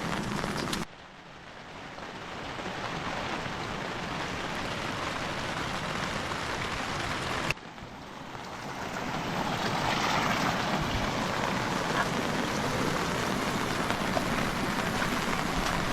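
Steady hiss of rain and running water, changing abruptly about a second in and again about halfway through.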